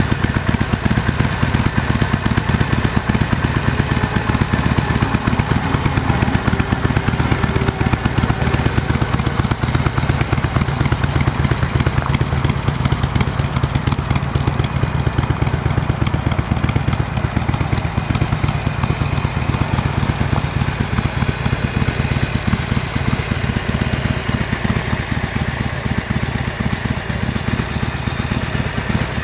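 2009 Harley-Davidson Sportster 1200's air-cooled V-twin idling steadily, with no revving.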